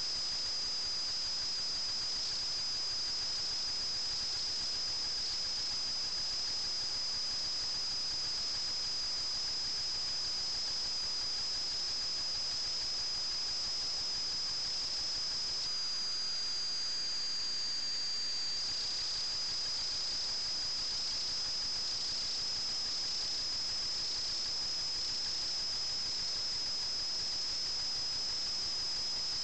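Steady high-pitched whine of an FPV model aircraft's electric motor over a constant hiss. About halfway through, the pitch jumps up and then slides back down over a few seconds before settling again.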